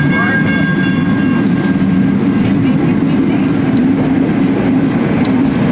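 Vintage Melbourne W2-class streetcar running along the track, a steady low rumble with occasional clicks of the wheels over the rails. A high whine fades away in the first couple of seconds.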